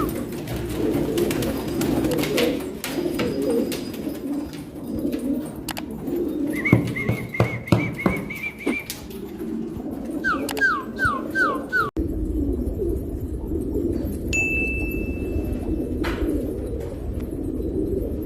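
A flock of domestic pigeons cooing in a steady low chorus, with a run of higher chirps and trills from smaller birds around the middle.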